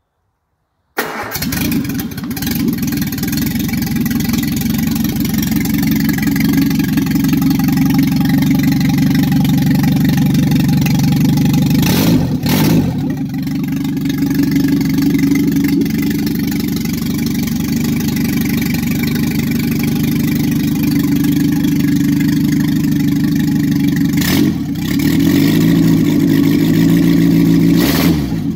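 Rebuilt Triumph Spitfire MK3 1296 cc four-cylinder engine, run bare on a test stand, starting for the first time. It catches about a second in and then runs steadily. The revs change briefly about twelve seconds in and again near the end, rising and falling as the throttle is worked.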